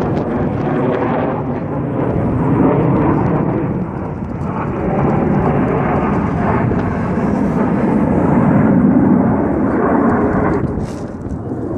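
Jet roar from Blue Angels F/A-18 Hornets flying the display, a steady rushing noise that swells and eases, heard through wind buffeting the phone's microphone. The higher part of the roar falls away about a second before the end.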